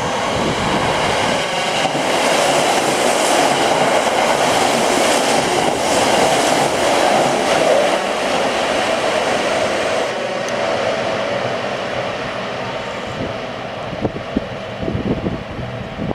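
Kintetsu Kyoto Line electric train running past the station platform, the rail noise loudest in the middle and fading away over the last several seconds.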